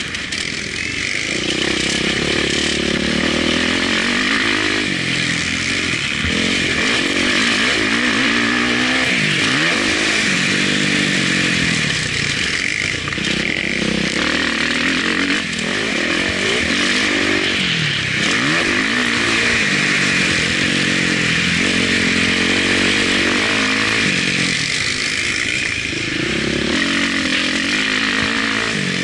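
Motocross bike engine heard from an onboard camera, revving hard and backing off over and over: the pitch climbs, drops and climbs again as the rider accelerates, shifts and brakes for corners around the track.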